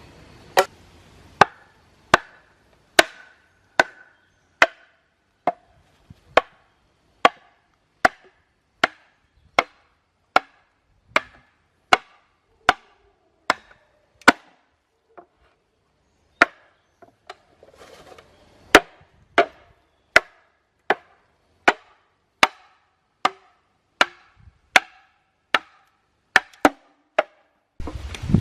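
A tool striking wood again and again at an even pace, a little more than one blow a second. Each blow is a sharp knock with a brief ring. The blows pause briefly about halfway through, then carry on. Just before the end they give way to a rush of wind-like noise.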